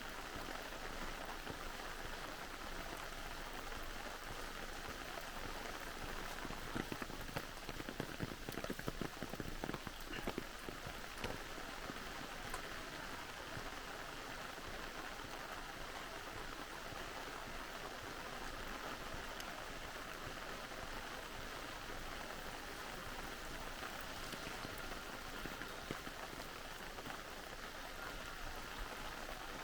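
Steady rain falling with a pattering of drops, and a spell of louder, sharper drop strikes about a third of the way in.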